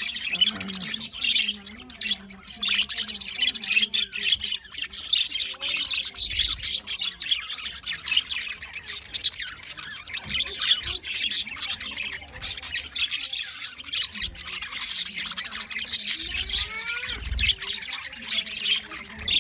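A flock of budgerigars chattering, chirping and squawking all at once, a dense and unbroken din of high calls.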